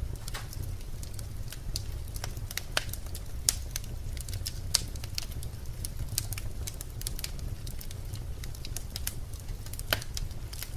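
Birch logs burning in a fireplace, crackling with irregular snaps and a few louder pops over a steady low rumble of the fire.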